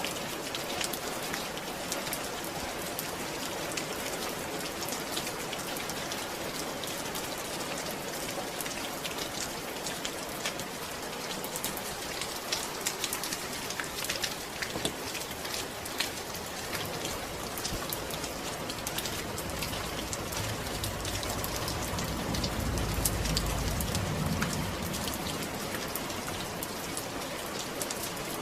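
Steady rain falling, a dense patter of drops over a constant hiss. A soft low rumble swells and fades about two-thirds of the way through.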